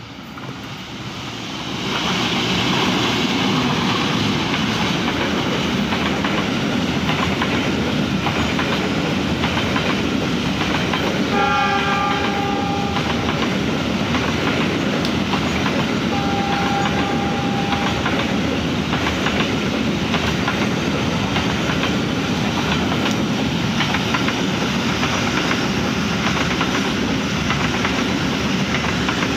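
A train passes close by, its wheels clattering over the rails as it comes up loud within the first couple of seconds and then runs on steadily. Its horn sounds twice, a blast of about two seconds near the middle and a second one a few seconds later.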